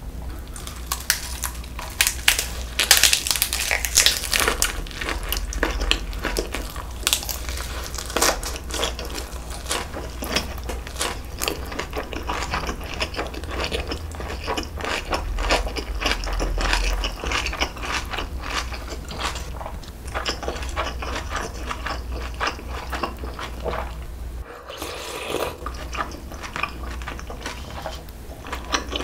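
Close-miked chewing of a lettuce wrap of jokbal (braised pig's trotters): dense, crisp crunching and wet mouth sounds, with a brief pause a little before the end.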